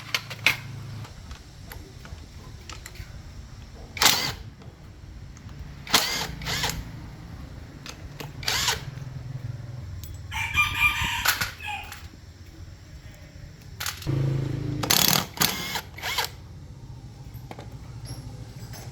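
Several sharp knocks and clanks of tool work, with a rooster crowing once in the middle, over a steady low hum.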